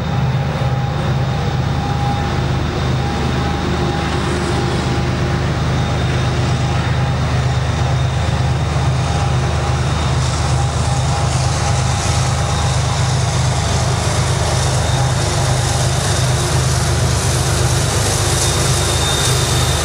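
Norfolk Southern diesel locomotives hauling a double-stack container train around a curve: a steady low engine drone, joined in the second half by a growing hiss and rumble of wheels on rail as the locomotives pass.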